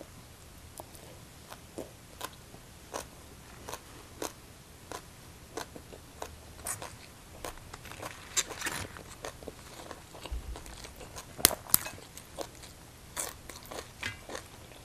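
A person chewing a mouthful of crunchy green papaya salad with sticky rice, close to the microphone: an irregular run of crisp crunches and mouth clicks, with a few louder, sharper snaps about two-thirds of the way through.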